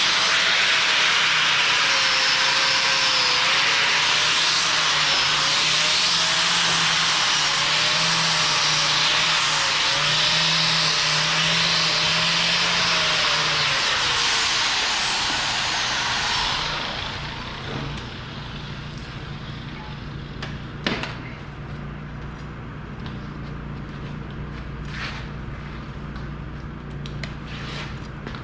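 Stick welding arc crackling and hissing steadily as a bucket tooth is welded to its shank. The arc breaks off about sixteen seconds in, leaving a steady low hum and a few sharp clicks.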